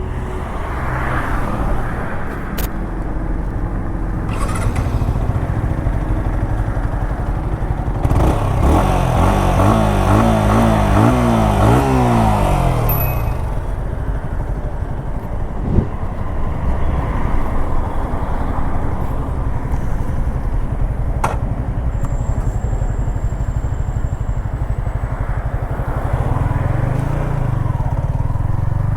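Yamaha XSR 155's single-cylinder engine running under way, with its pitch rising in several sweeps as it accelerates about a third of the way in, then settling to a steady drone.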